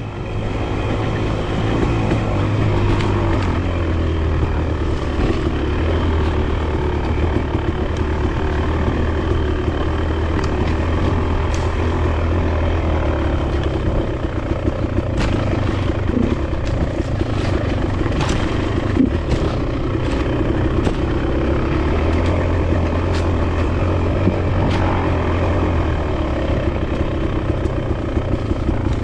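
Enduro dirt bike engine running as the bike is ridden along a dirt single track, with scattered sharp ticks and knocks over the engine.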